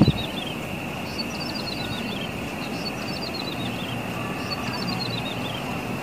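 Small grassland songbird known in Indonesia as the ciblek sawah or klik-klik bird singing three phrases, each a quick run of short high notes that steps down in pitch over about a second. A steady high-pitched hum and low rumble run underneath.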